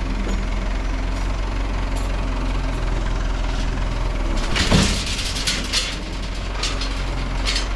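Backhoe engine idling steadily, with a brief loud surge of noise about halfway through and a few short metallic clanks after it.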